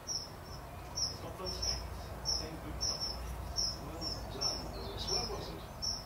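A small bird giving short, high chirps over and over, about two a second.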